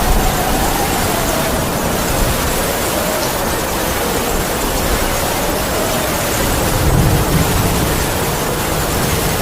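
Heavy rain falling steadily with wind howling over it: a dense hiss with low rumbling gusts and a faint whistle that slowly rises and falls.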